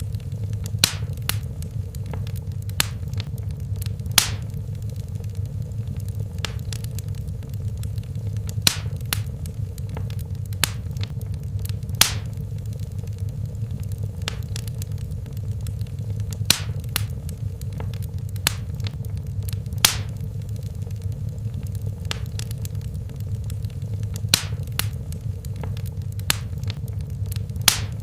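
Fire burning in a fireplace: a steady low rumble of flames with sharp crackles and pops at irregular intervals, usually a second or two apart.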